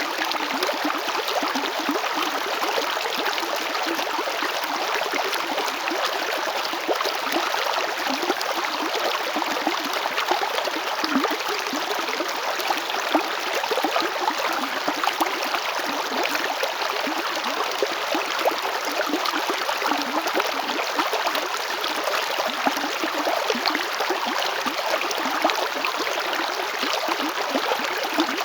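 Water of the Chalchaní river flowing and splashing over stones, a steady rushing with fine gurgles and no breaks.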